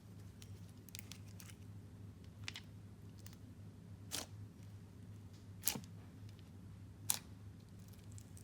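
Clay and jelly slime being handled, giving a few sharp pops and clicks, the loudest two in the second half, over a steady low hum.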